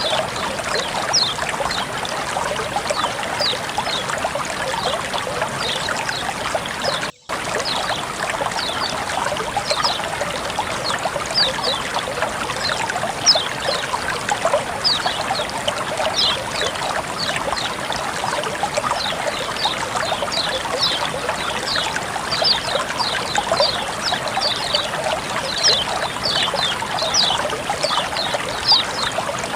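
Flowing water trickling steadily, with many small high plinks and splashes throughout. The sound drops out completely for a moment about seven seconds in.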